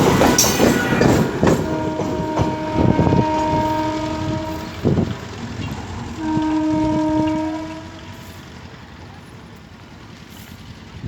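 MEMU train running with wheel clatter and sounding its horn twice: a long blast of about three seconds, then a shorter one about six seconds in. After the second blast the train noise fades away.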